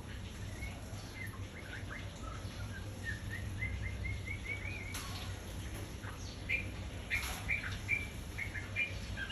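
Small birds chirping in short, quick calls, with a rapid run of rising chirps near the middle, while they bathe; two brief sharp noises, like a splash or wing flutter, break in about halfway through and a couple of seconds later.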